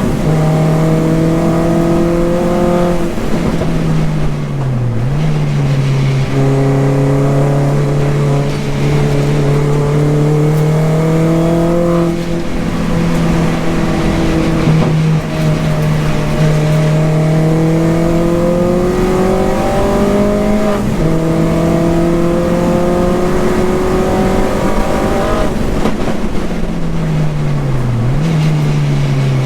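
Mini R55 Clubman race car's engine under hard acceleration on track, heard from inside the car. Its pitch climbs through each gear and drops back at each gear change, several times over.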